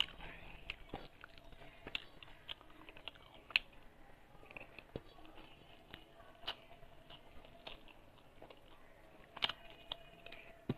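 Close-up chewing and mouth sounds of a person eating rice by hand, with irregular short mouth clicks, a few louder than the rest.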